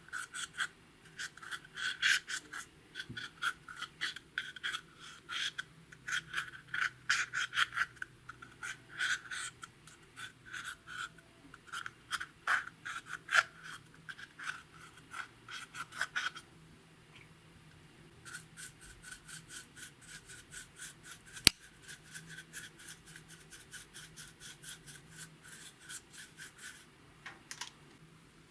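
Clear slime being worked by hand with makeup and glitter mixed in, giving dense runs of short sticky clicks and crackles. There is a pause partway through, then a lighter, even run of clicks with one sharp snap.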